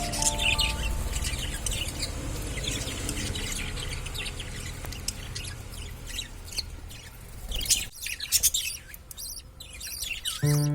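Budgerigars chirping: many short, high chirps over a low background rumble.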